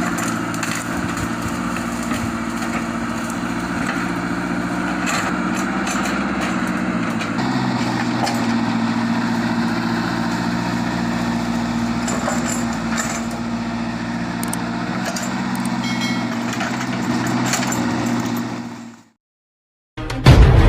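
Sumitomo 110 excavator's diesel engine running steadily, with a few short knocks and cracks over it; the engine note shifts a few seconds in. The sound fades out near the end.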